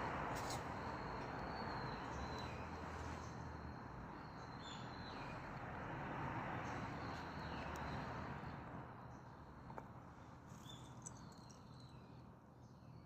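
Dry branches burning in a Solo Stove wood stove: a steady rushing flame sound that slowly dies down, with a few faint high ticks scattered through it.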